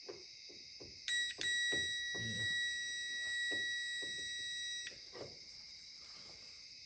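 A steady high-pitched electronic beep: a short blip about a second in, then one held tone for about three and a half seconds that cuts off suddenly, over crickets chirping.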